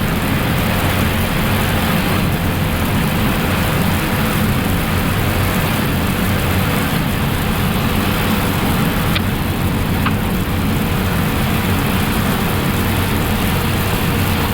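Steady rush of cockpit noise on an Airbus A380 flight deck on final approach, with gear down and flaps full, made up of airflow and air-conditioning noise with a faint steady hum. Two faint clicks come about nine and ten seconds in.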